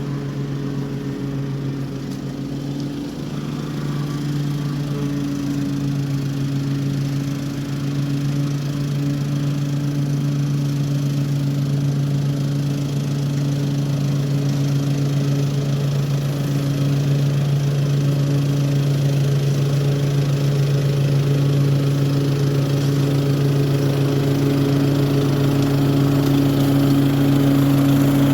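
Toro HDX 30-inch self-propelled mulching lawn mower running steadily while mowing, its engine hum growing gradually louder.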